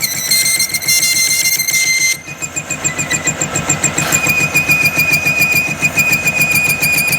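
Workshop machine running steadily, with a fast, even pulse and a constant high whine; the sound changes abruptly about two seconds in.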